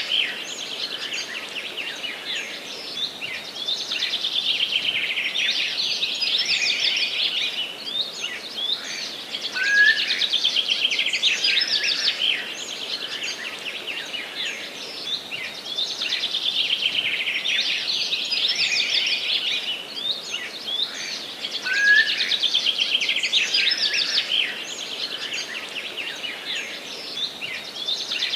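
Songbirds singing in a forest: a dense, unbroken chorus of high, rapid trilled phrases that swell and repeat every few seconds, with a short lower rising chirp twice.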